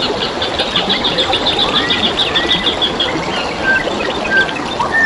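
Flowing water babbling steadily, with wild birds singing over it: a fast trill of short high notes, about seven a second, for the first three seconds, then scattered short whistled notes.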